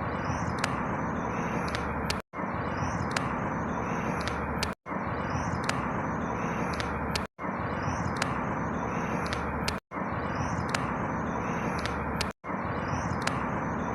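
Outdoor ambience recording: a steady rushing noise with faint high chirps over it. The same short stretch of about two and a half seconds repeats over and over, each repeat broken by a brief cut to silence.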